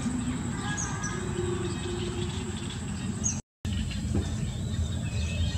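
Outdoor ambience with small birds chirping now and then over a steady low noise. The sound drops out completely for a moment a little past halfway.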